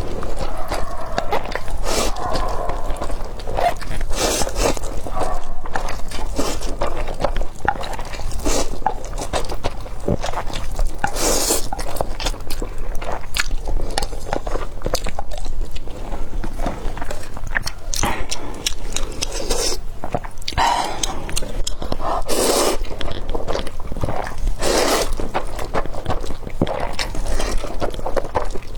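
Close-miked chewing and eating sounds of a person eating spicy noodles and fried eggs, with many short, crisp smacks and scrapes throughout.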